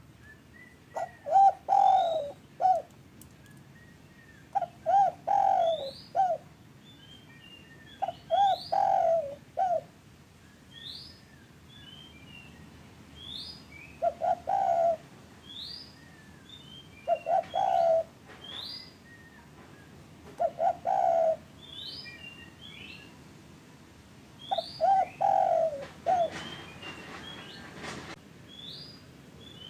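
Spotted dove (derkuku) cooing in repeated phrases of three or four notes, seven phrases a few seconds apart: a lure call for getting caged doves to start calling. Small birds chirp between the phrases.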